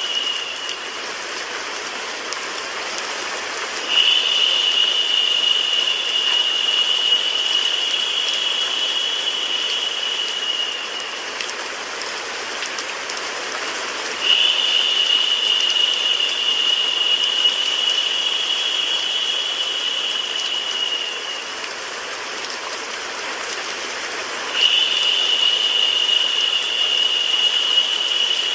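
Steady rain-and-white-noise sleep track, an even hiss with no breaks. A louder, higher-pitched hiss comes in on top for about seven seconds and drops away, repeating about every ten seconds, three times.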